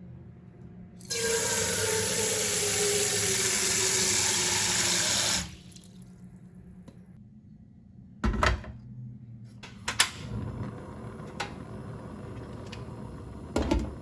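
Kitchen tap running hard for about four seconds and then shut off, with a faint tone that falls in pitch as the water runs. Later come three short knocks of things being set down or handled, over a steady low hum.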